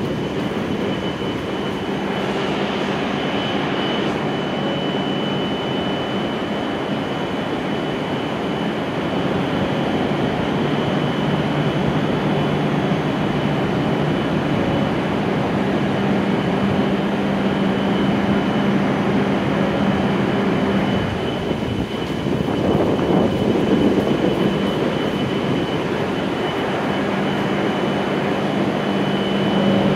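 A stopped E7 series shinkansen standing at the platform, its onboard equipment humming steadily with a high whine on top. The hum swells briefly about two-thirds of the way through.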